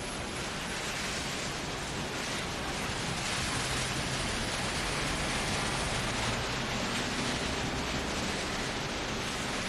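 Steady hiss of rain falling, with a faint low hum underneath.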